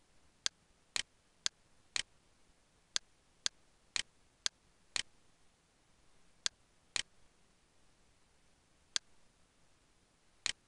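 Computer mouse button clicking: about a dozen sharp single clicks and a few quick double clicks, spaced irregularly, over a faint hiss.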